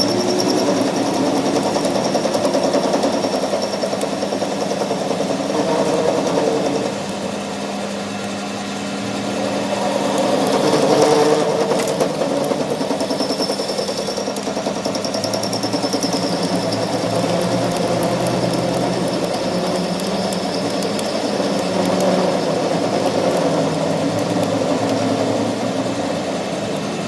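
A workshop machine running steadily, with a fast, even mechanical chatter over a constant hum.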